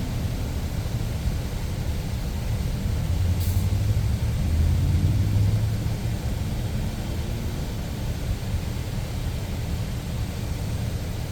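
Steady low rumble of a running motor, a little louder in the middle, with one brief high hiss about three and a half seconds in.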